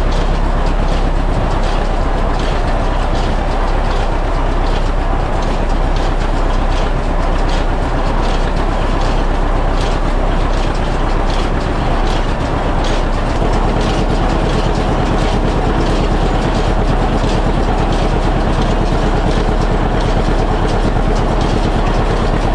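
Massey Ferguson 124 square baler running, driven from the tractor's PTO: a regular mechanical clacking from the baler's moving parts over the steady drone of the tractor engine.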